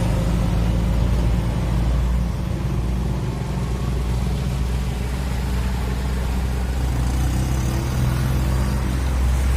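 A motor vehicle's engine running steadily at low speed, a low hum that holds level throughout.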